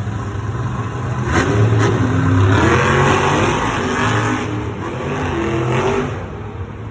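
Monster truck engines revving, the sound rising and falling and swelling loudest a few seconds in.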